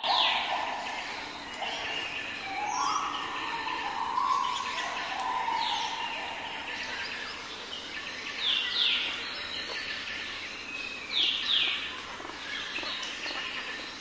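Small birds calling: short, high chirps that drop in pitch, repeated every few seconds and sometimes in pairs, with lower, longer notes in the first few seconds.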